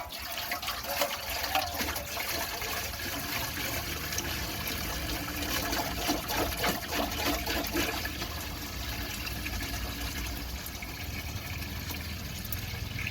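Water splashing and pouring into a container, with a steady gushing noise and small irregular splashes.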